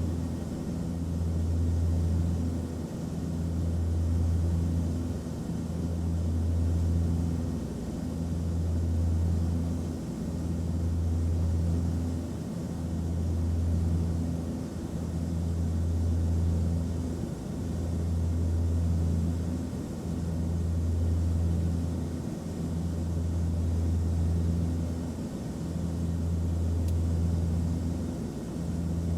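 Airliner cabin noise: a steady low drone over a faint hiss, swelling and easing gently every two to three seconds.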